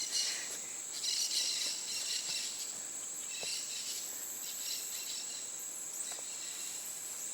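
Rainforest insects keeping up a steady, high-pitched trill, with scattered short chirps over it.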